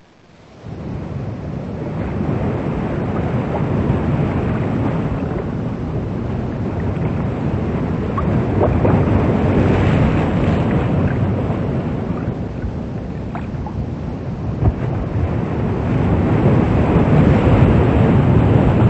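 Itama 40 motor yacht running at speed: a steady rush of water and wind buffeting the microphone over a low rumble.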